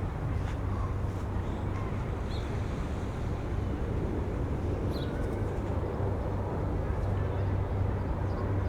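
Outdoor riverside city ambience: a steady low rumble with a constant low hum, with a couple of faint short high chirps about two and five seconds in.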